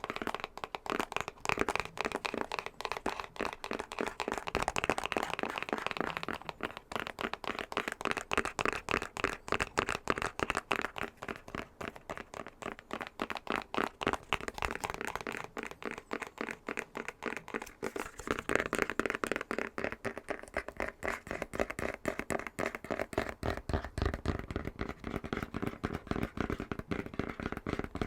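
Rapid fingernail tapping on a box, a fast, continuous run of small clicks.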